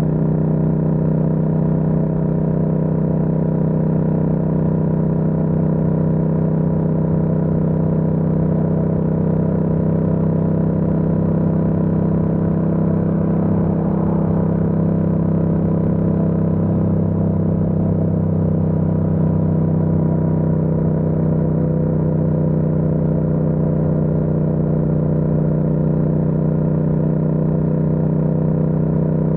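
Yamaha MT-07's parallel-twin engine running at a steady speed under way, its pitch holding level without revving up or down.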